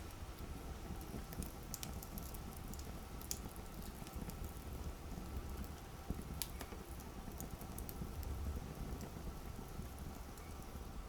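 Campfire burning: a low steady rumble of flames with scattered sharp crackles and pops from the burning wood, the clearest pop about six seconds in.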